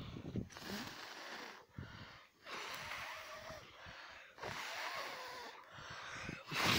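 A person blowing hard on the embers of a campfire to get it to catch: about four long, forceful breaths, each a rush of air lasting one to two seconds, with short pauses between them for breath.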